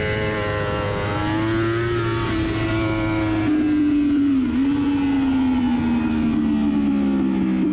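Yamaha R1 superbike's inline-four engine running hard at high revs on the track, its pitch climbing, holding, then sagging briefly about halfway through before easing down again.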